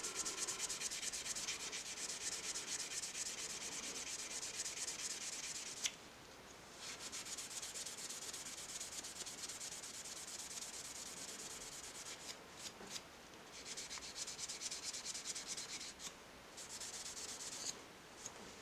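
Steel wool rubbed back and forth on a pocketknife blade in quick strokes, a scratchy hiss, with short pauses about six seconds in and a couple more later on. The rubbing takes dark discoloration off the blade.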